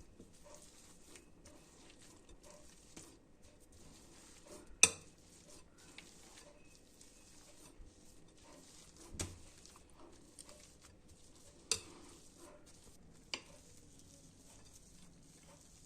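Faint kitchen handling sounds, with a few sharp clinks of a utensil or dish: the loudest about five seconds in, then three softer ones spread through the rest.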